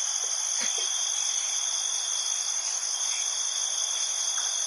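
Steady chorus of crickets and other night insects, trilling continuously at several high pitches. A faint soft knock comes under a second in.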